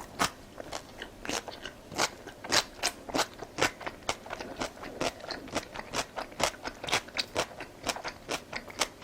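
Close-up chewing of crunchy radish kimchi: a steady run of sharp crunches, about three or four a second.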